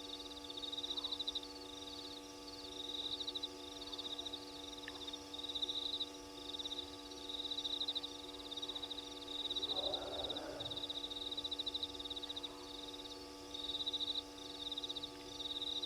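Crickets trilling: high, fast-pulsed trills repeating every second or two, over a steady electrical hum, with a brief burst of rustling noise about ten seconds in.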